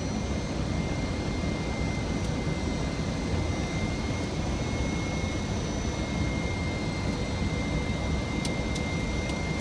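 Steady cockpit noise of a Boeing 737-500 on final approach: a low rumble of airflow and jet engines with a faint steady high tone. A few faint ticks come near the end.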